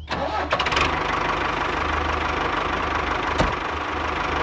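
Miniature DIY tractor's small motor and belt-and-pulley drive running steadily: a dense whir over a low steady hum, with one short knock about three seconds in.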